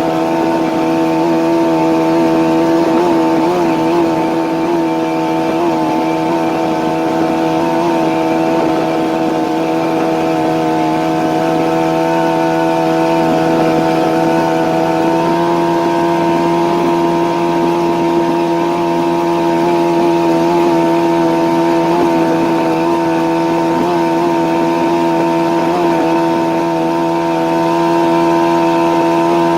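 Yamaha outboard jet motor on a jon boat running steadily at cruising speed, its pitch stepping up slightly about halfway through.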